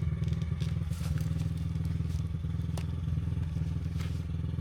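Dirt bike engine running steadily at idle, with a few sharp clicks and scrapes of motocross boot buckles being worked.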